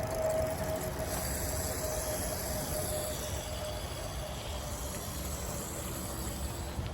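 Steady low rumble and hiss of wind and tyre noise while riding a mountain bike, with a faint steady hum that slowly fades.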